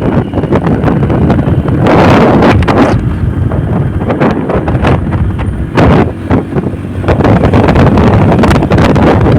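Wind buffeting the microphone of a moving motorcycle, loud and continuous, with the bike's engine and road noise underneath. Stronger gusts hit about two seconds in and again around six seconds.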